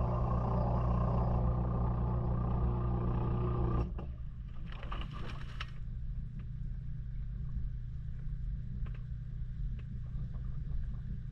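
Maytag washing machine running with a steady motor hum that cuts off abruptly about four seconds in. A short hiss follows about a second later, then a quieter low rumble with a few light clicks.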